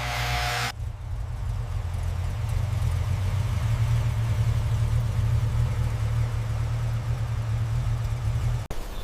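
Car engine idling, a steady low rumble that cuts off suddenly near the end.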